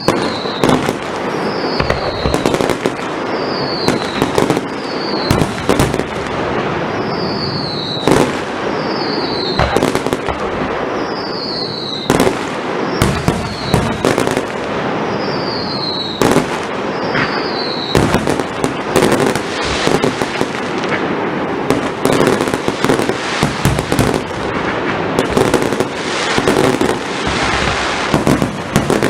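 Firework display: short whistles falling in pitch, one every second or two, over repeated sharp bangs. From about two-thirds of the way through, the bangs become a dense run of crackling reports.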